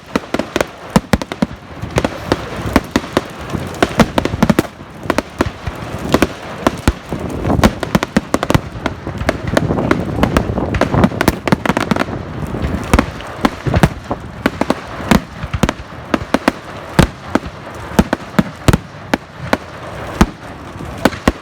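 Fireworks going off in a rapid, continuous barrage: many sharp bangs and crackles a second, overlapping, with no pause.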